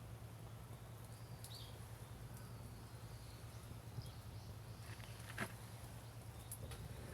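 Wood campfire crackling, with a few sharp pops, the loudest about five seconds in, over a low steady hum and faint bird chirps.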